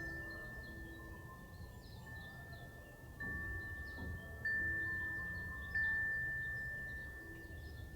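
Wind chime ringing in the breeze: one clear bell tone struck again about three times around the middle, each strike ringing on and slowly fading, over a low rustle of wind.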